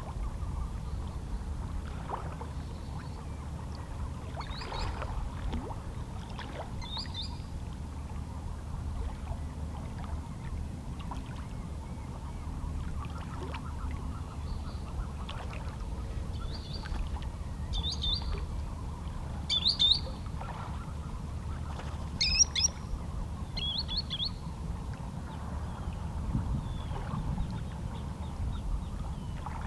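Small waves lapping against shoreline rocks as a steady low wash, with short high calls from seabirds scattered throughout; the loudest calls come about two-thirds of the way in.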